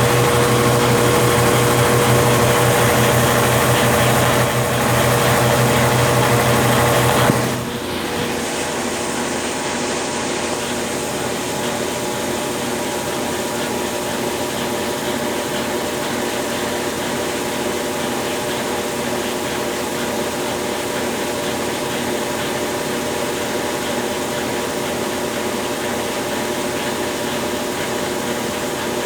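Consul Facilite 10 kg washing machine running in its wash stage after a mechanical overhaul: a loud, steady motor hum that drops abruptly about seven seconds in to a quieter, steady whir.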